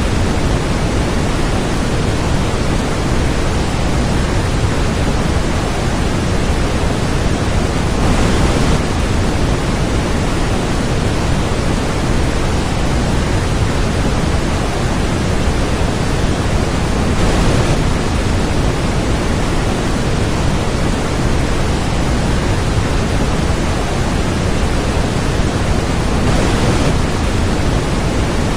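Loud, steady hiss-like noise spread evenly from low to high pitch, with no distinct events in it, swelling slightly about every nine seconds.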